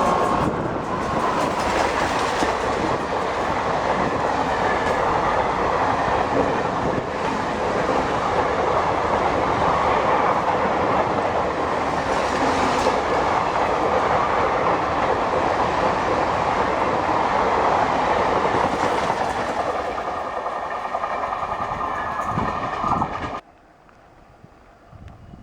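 Indian Railways express train running through a station at speed: a loud, steady rush of wheels and coaches with rail clatter. It stops abruptly near the end.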